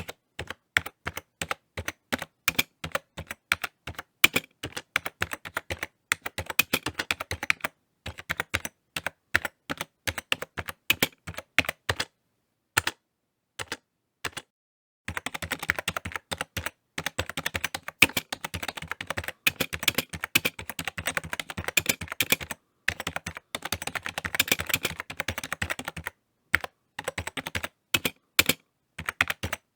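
Typing on a computer keyboard: irregular runs of key clicks, sometimes slow and spaced, sometimes in fast flurries, with a pause of a few seconds about halfway through.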